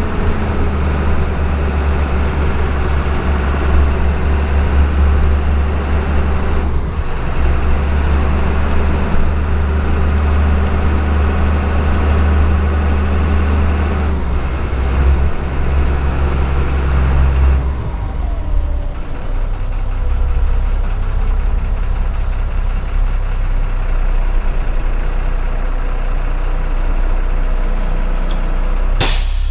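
Caterpillar 3116 diesel engine of a school bus running steadily; about two-thirds of the way through its note drops and becomes quieter and duller. Just before the end comes one short, sharp hiss of air from the air-brake system.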